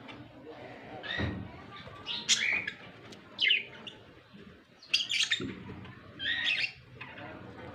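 Pet birds chirping: short, sharp calls repeated about five times, about a second apart, with a couple of low thuds between them.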